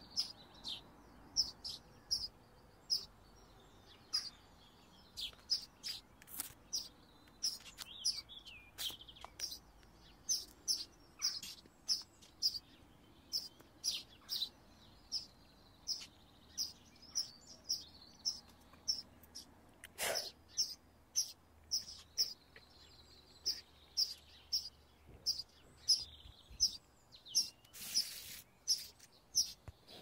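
Small birds chirping: short, high chirps repeated about twice a second, some with a quick bend in pitch. One sharper click about two-thirds of the way through.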